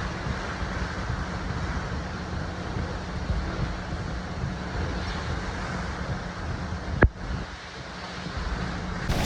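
Hurricane-force wind buffeting the vehicle and microphone, a steady noisy rush with a heavy low rumble. A single sharp knock about seven seconds in is the loudest sound.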